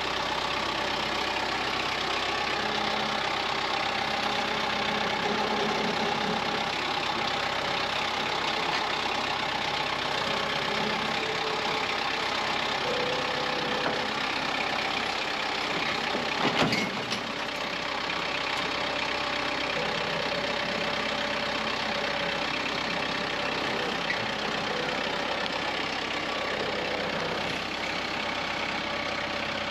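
Diesel tractor engine running steadily, with one short clunk about seventeen seconds in.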